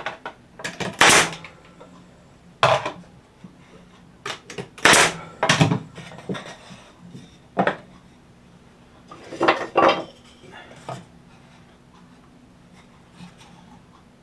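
Wooden boards and scraps knocking and clattering as they are handled and set in place, a dozen or so separate knocks at uneven gaps, loudest about a second in and about five seconds in.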